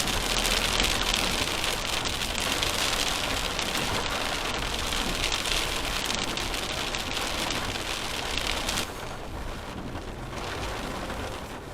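Heavy rain pattering on a vehicle, a dense even hiss of drops that turns quieter about nine seconds in.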